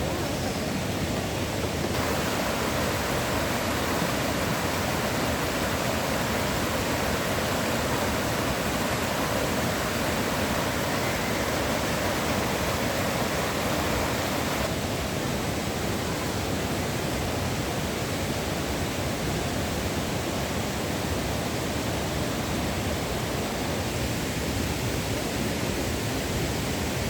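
Steady rushing of falling water from a waterfall, an even, full hiss with no breaks. Its tone shifts abruptly twice, about two seconds in and about fifteen seconds in.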